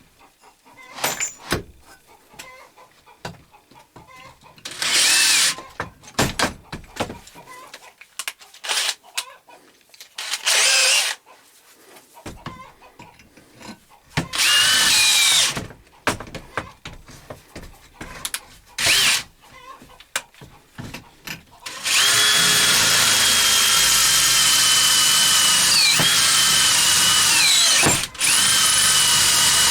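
Electric drill boring a tap hole in metal: the motor is run in short bursts of a few seconds each, then runs steadily from about two-thirds of the way in, its whine dipping briefly twice as the bit bites and loads.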